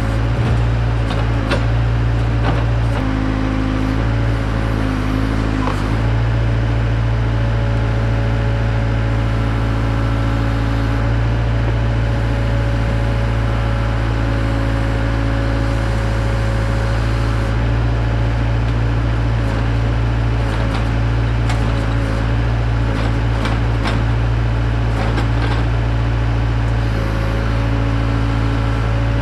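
Case 580K backhoe's four-cylinder diesel engine running steadily while the hoe digs dirt, its tone shifting briefly a few times, with scattered clicks and knocks.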